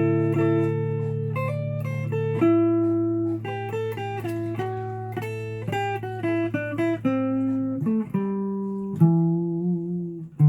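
Guitar played solo: single notes picked in a melodic run over low notes left ringing, with the bass note changing about eight seconds in and a fresh note struck near the end.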